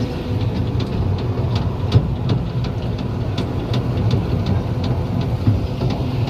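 Miniature railway diesel locomotive running steadily, heard from the carriages, with a low rumble and repeated short clicks of the wheels over the track.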